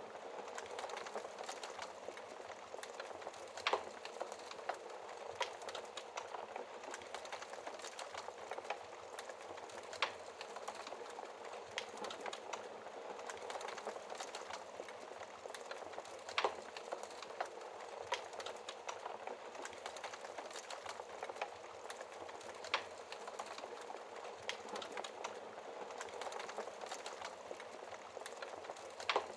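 Wood fire crackling in a fireplace: a steady hiss of burning with frequent small pops, and a few louder snaps every several seconds.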